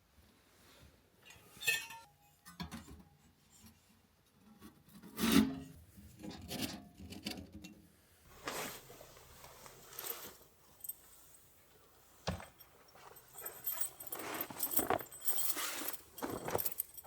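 Irregular rubbing and scraping of objects being handled, with a few clinks and sharp knocks; the loudest knock comes about five seconds in.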